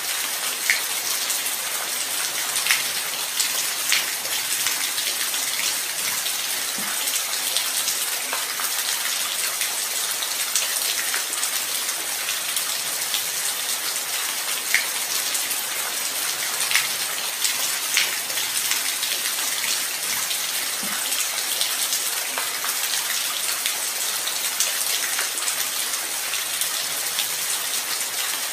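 Steady light rain falling, an even hiss with scattered individual drops tapping close by.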